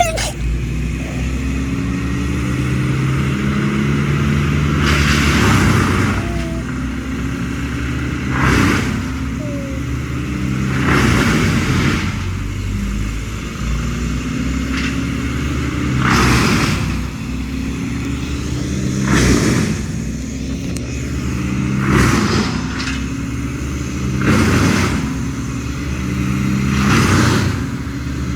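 An engine running, its pitch repeatedly rising and falling, with a short burst of noise about every two to three seconds.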